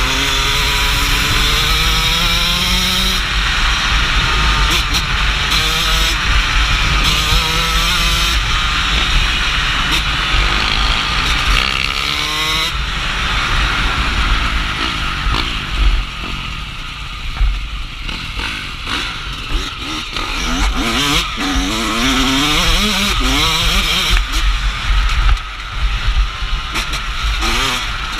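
Dirt bike engine revving up and easing off again and again under riding load, its pitch climbing and dropping with each burst of throttle and gear change.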